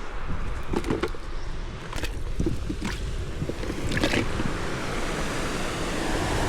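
Sea water lapping and sloshing against a small boat's hull, with wind rumbling on the microphone and a few short knocks and splashes.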